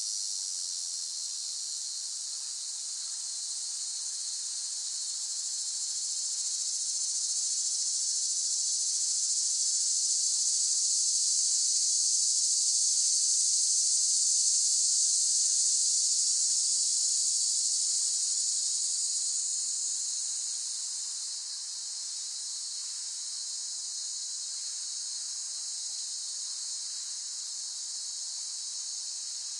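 Cicadas singing in a steady, dense high-pitched buzz that slowly swells louder toward the middle and eases off a little about two-thirds of the way through.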